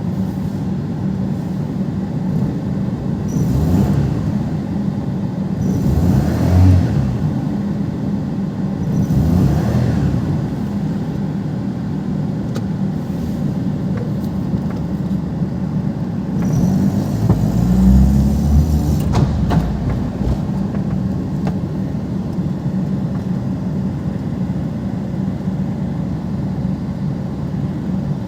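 Perodua Kenari's small three-cylinder petrol engine running steadily and being revved up and let back down about four times, each rev rising and falling in pitch. It is being revved to show a fault that brings on the check engine light under acceleration.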